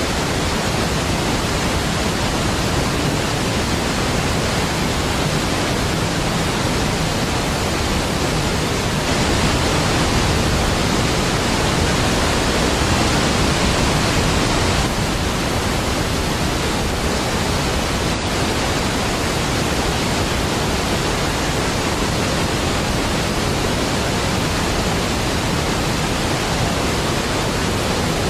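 Large waterfall rushing as a deep, steady wash of noise, swelling slightly for several seconds in the middle.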